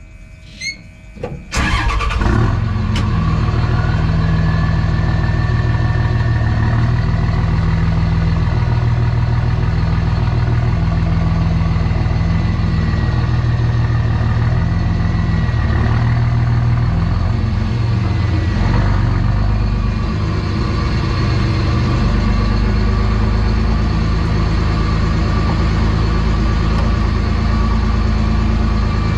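Cummins diesel engine in a 2006 Ram pickup with a Stealth 64 turbo, coming in abruptly about a second and a half in and then idling steadily. Over the engine runs a thin turbo whistle that rises in pitch over the first few seconds and then holds.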